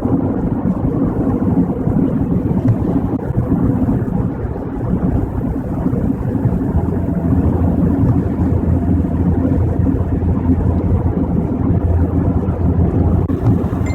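Steady road and engine noise heard inside a car driving at freeway speed, a low drone that grows a little stronger about halfway through.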